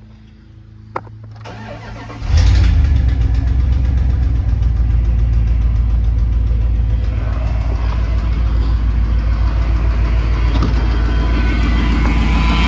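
A 2001 Dodge Ram 1500's 5.2 Magnum V8 being restarted warm: a click, a brief crank, and the engine catches about two seconds in, then settles into a steady idle.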